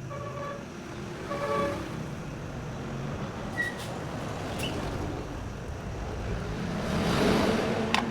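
Steady traffic rumble with two short horn beeps about half a second and a second and a half in, then a rising hiss near the end.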